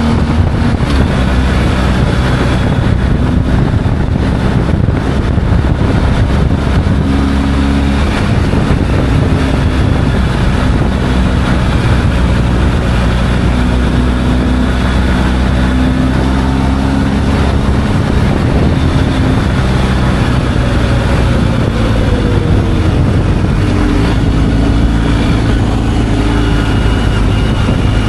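Motorcycle engine running at road speed under a steady rush of wind noise, its note shifting up and down a few times with the throttle.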